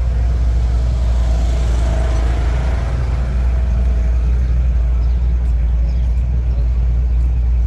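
Truck engine running with a steady low rumble; a rushing noise swells and fades about two seconds in.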